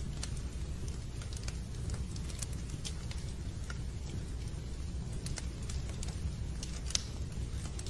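Fireplace wood fire crackling, with irregular sharp pops over a steady low rumble, one louder pop near the end.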